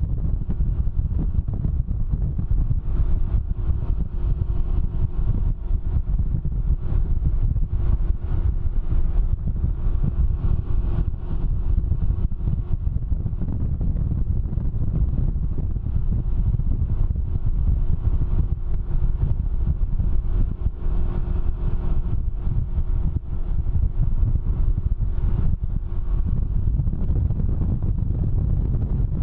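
Wind buffeting the microphone of a moving Can-Am Ryker, a steady dense rumble, with a faint steady engine hum underneath.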